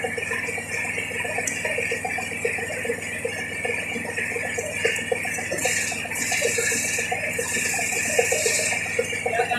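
A steady mechanical rattle with a continuous high whine underneath. In the second half come several bursts of hissing.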